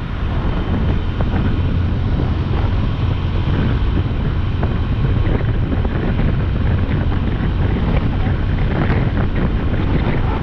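Wind buffeting the microphone on a moving motorcycle, a steady loud rumble with the bike's road and engine noise underneath.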